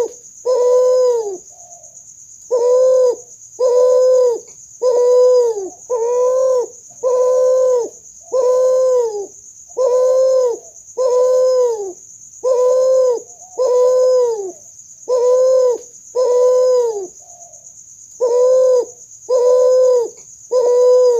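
Hybrid spotted dove × ringneck dove (kuter) cooing: a long series of identical short coos, a little under one a second, each held on one pitch and dropping at its end, with two brief pauses in the run. A faint steady high-pitched whine runs beneath the coos.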